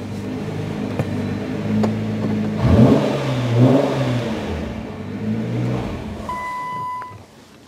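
Nissan GT-R's twin-turbo V6 running after a remote start, revved briefly twice about three and four seconds in. Near the end a steady electronic chime starts beeping and the engine shuts off.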